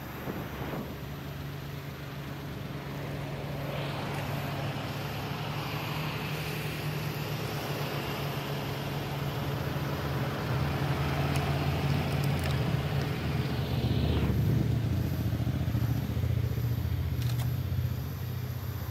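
Honda Today kei car's engine idling steadily with a low hum, growing a little louder in the second half.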